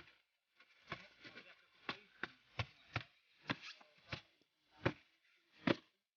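A series of about nine sharp knocks or taps at uneven intervals, the last two the loudest.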